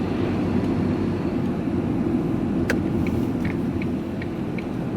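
Steady engine and road rumble inside a moving vehicle's cab, with one sharp click a little under three seconds in and a few faint ticks after it.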